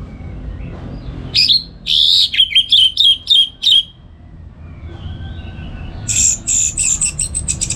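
Orange-headed thrush singing: a loud phrase of quick, falling and looping notes about a second and a half in, then near the end a fast run of high repeated notes.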